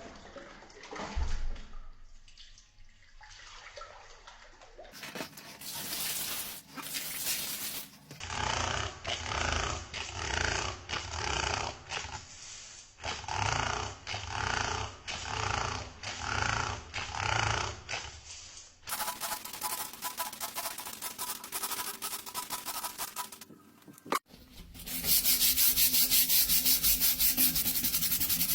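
Scrubbing sounds from house cleaning, in several short clips cut together. A stretch of rhythmic rubbing strokes comes about once a second, and near the end there is a louder, faster, crisp scrubbing.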